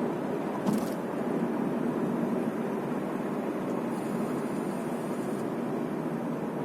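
Steady road and engine noise inside a moving car's cabin, a low even rumble, with a single short click a little under a second in.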